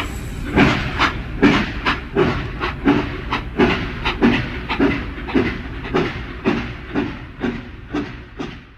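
Steam locomotive chuffing in an even rhythm of about three puffs a second, with hissing steam, gradually fading away.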